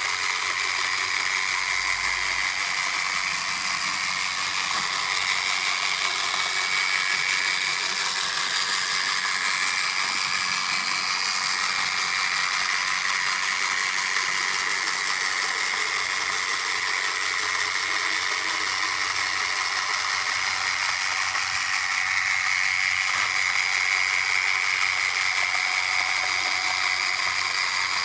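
Robot vacuum cleaner running: a steady whir with a high whine that wavers slightly in pitch.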